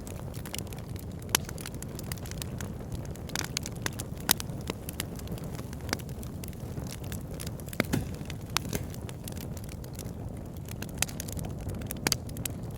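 Wood fire burning in a fireplace: logs crackling with scattered sharp pops over a steady low rumble of the flames, a few pops louder than the rest.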